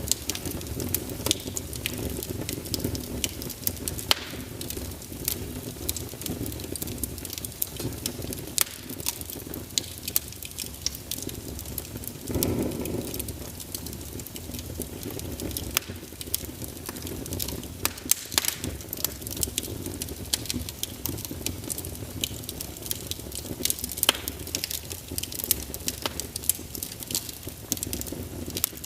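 Wood fire burning in a fireplace: irregular sharp crackles and pops from the burning logs over a steady low rush of flame, with a brief swell of the flame sound about twelve seconds in.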